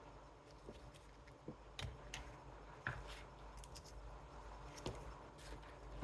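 Faint, scattered small clicks and taps from handling small electronic parts and hand tools on a workbench, about eight at irregular intervals, over a low steady hum.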